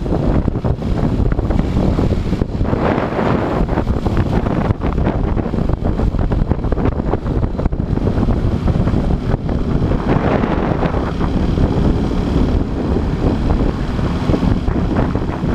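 Motorcycle engine running under way, mixed with heavy wind buffeting on the action camera's microphone; the sound swells twice, a few seconds in and again past the middle.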